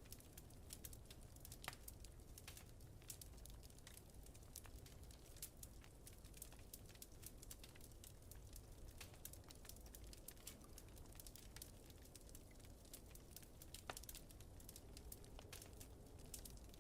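Wood fire crackling in a fireplace: quiet, irregular pops and snaps, over a low steady rumble of wind.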